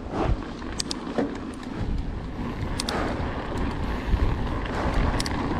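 Mountain bike riding down a dirt trail: tyre noise over dirt and rocks with wind on the mic, and scattered clicks and knocks from the bike over bumps. It gets louder about two seconds in as the speed picks up.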